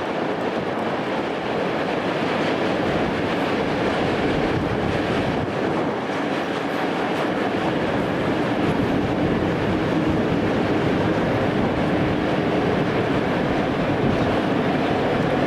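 A train running at speed: a steady rumble of wheels on rail with some clickety-clack over the rail joints.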